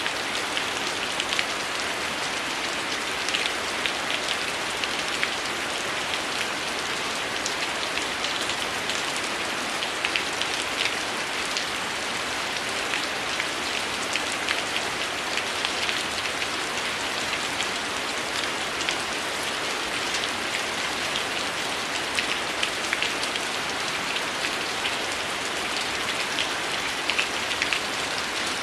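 Heavy rain falling steadily in woodland, an even hiss with many short sharp ticks scattered through it.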